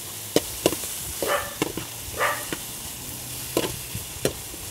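Chopped green beans, tomato and onion sizzling in oil in a metal pot as they are sautéed, while a metal spoon stirs them, clicking and scraping against the pot.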